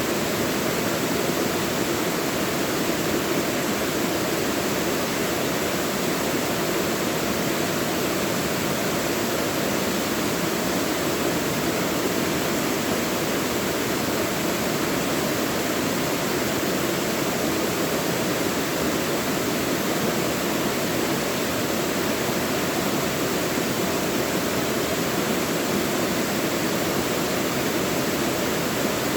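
Mountain valley stream rushing steadily over rocks, an even unbroken wash of water noise.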